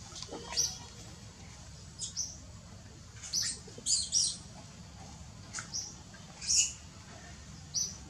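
Birds chirping, about eight short high-pitched chirps at irregular intervals, the loudest about six and a half seconds in, over a low steady background noise.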